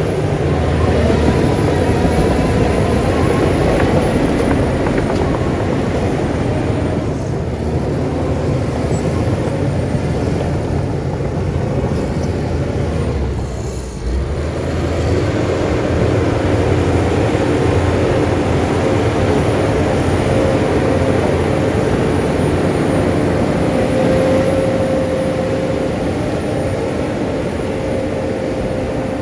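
Heavy diesel earthmoving machinery running steadily at work, its engine dipping briefly about halfway through.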